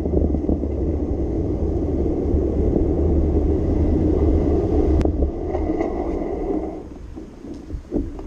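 Riding noise from a bicycle on wet city roads: wind buffeting the microphone over a steady road rumble. The deep rumble drops away about five seconds in, just after a single sharp click, and everything gets quieter near the end.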